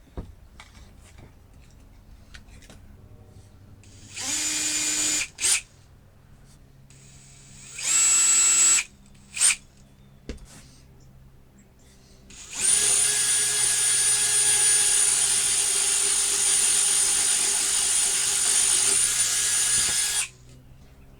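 Cordless drill running: two short bursts about a second long, each followed by a quick blip, then a long steady run of about seven and a half seconds near the end.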